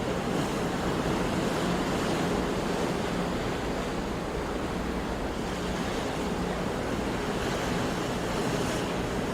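Sea waves washing onto a shore: a steady surf wash with gentle swells and no single breaking crash standing out.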